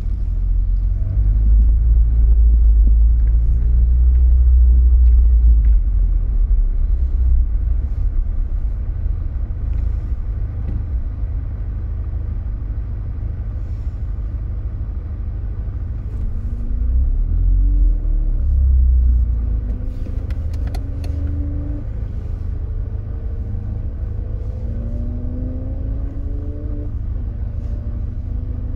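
Mk1 Audi TT engine under way with a heavy low rumble, loudest over the first few seconds. From about halfway on, the engine note climbs again and again in steps as the car accelerates through the gears.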